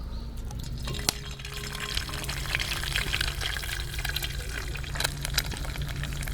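Fried rice frying in a hot pan: a sizzle that starts about a second in, with crackles and small clacks from stirring.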